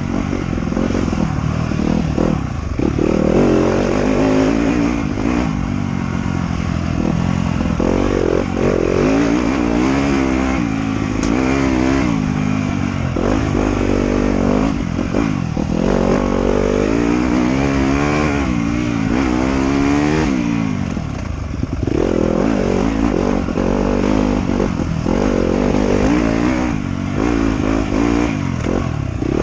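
Motorcycle engine being ridden hard, its pitch climbing and dropping again and again as the throttle is opened and closed.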